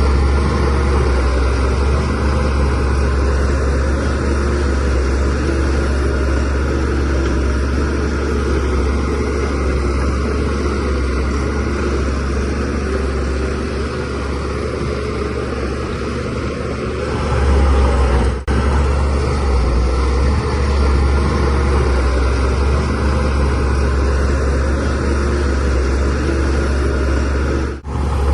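Shantui DH17C3 bulldozer's diesel engine running steadily at working revs as the machine pushes soil.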